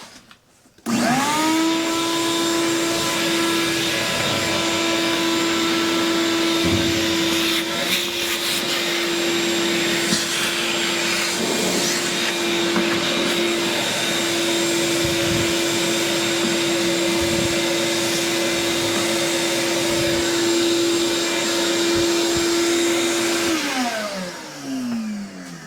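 Vacuum cleaner switched on about a second in, its motor spinning up to a steady whine over a rushing hiss, with a few knocks along the way; near the end it is switched off and winds down with a falling pitch.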